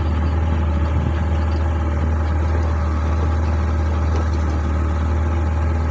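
Small boat's engine running steadily under way, a deep even hum with noise over it.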